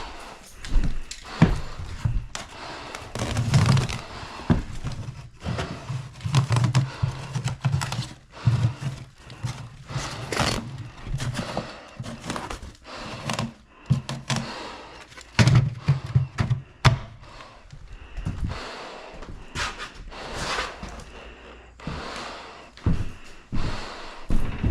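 Irregular knocks, thuds and clatter in a small room, as of objects being handled and moved about, with stretches of low rumble mixed in.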